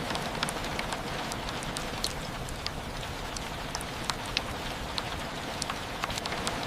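Steady rain: a constant hiss with individual drops tapping sharply and irregularly, several a second.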